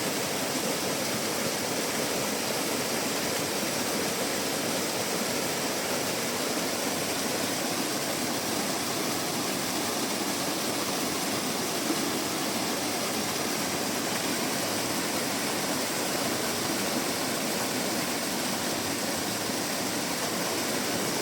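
Steady rush of water from a small waterfall on a mountain stream, a constant even hiss with no change.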